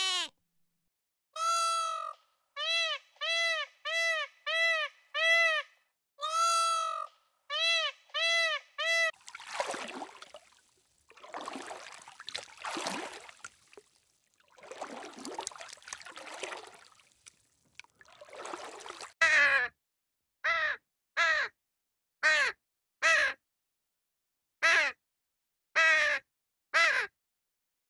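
Bird calling: for about the first nine seconds, a run of loud, clear, evenly repeated calls. Then several seconds of harsher, rasping sounds, and near the end another run of short, sharp calls with short gaps between them.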